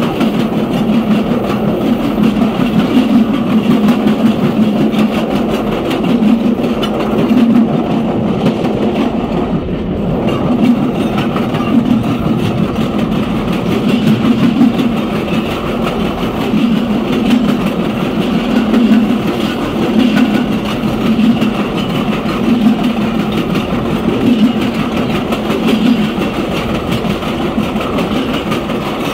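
Passenger rail car rolling along the track: a steady rumble of steel wheels on the rails with light clicking. The rumble swells and fades about every second and a half.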